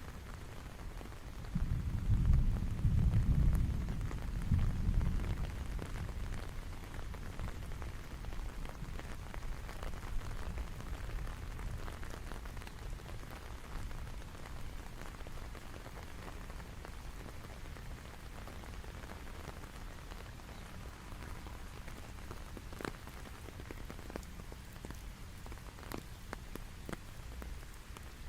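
Steady rain falling, with a low rumble of thunder lasting a few seconds near the start. Scattered sharper drops tick through the later part.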